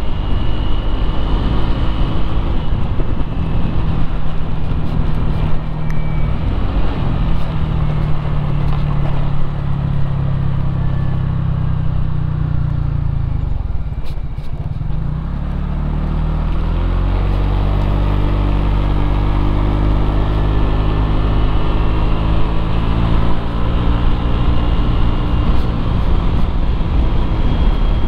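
Motorcycle engine running while riding in traffic, with rushing road and wind noise. About halfway through the engine eases off and its pitch drops, then it picks up again with a steadily rising pitch as it accelerates.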